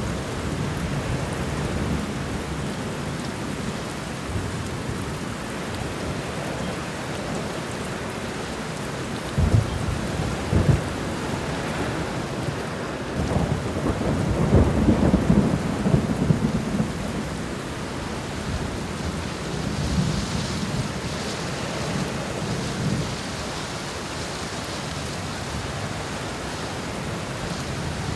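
Thunderstorm: steady rain falling throughout, with thunder rumbling low. Two short, sharp peaks about ten seconds in, then a longer rumble swells and fades a few seconds later.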